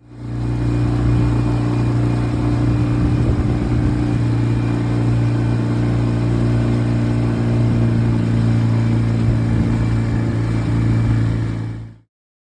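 A small boat's outboard motor running steadily at an even speed, with a strong low hum. It fades in at the start and stops abruptly near the end.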